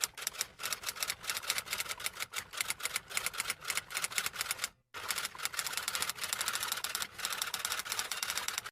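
Rapid typing: a fast, even run of key clicks, several a second, with a brief pause about halfway through.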